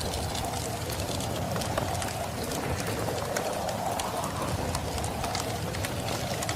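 Winter storm ambience: steady wind with a wavering howl and a low rumble, while a wood fire crackles with frequent small pops.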